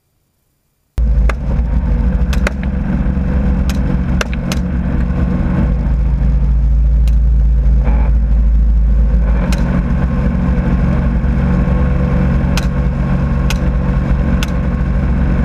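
Helicopter running in flight, a steady loud low drone of engine and rotor, heard from on board, starting about a second in. A dozen or so sharp clicks are scattered through it.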